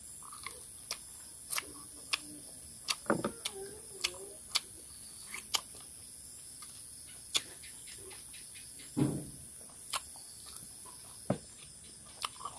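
Close-miked chewing and eating by mouth: scattered sharp wet mouth clicks and lip smacks while gnawing boiled chicken off the bone and eating rice by hand, with a couple of fuller chewing sounds a few seconds in and again past the middle.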